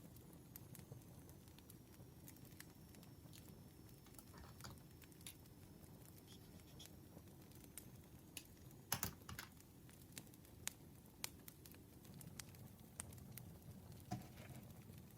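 Campfire burning quietly: a low steady rumble of flames with scattered sharp crackles and pops from the burning wood, a cluster of louder pops about nine seconds in.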